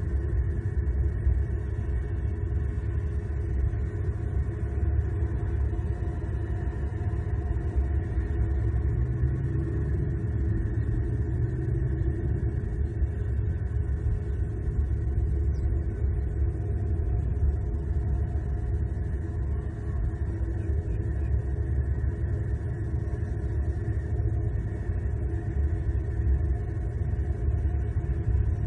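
Steady low rumble with a faint constant hum, swelling slightly about ten seconds in.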